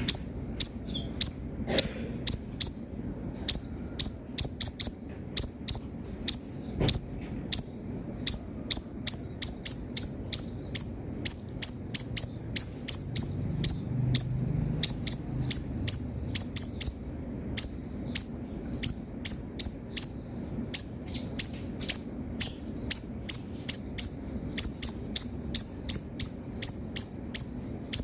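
Kolibri ninja sunbird calling in a fast, uneven run of sharp, high chips, often bunched in quick clusters of two to four.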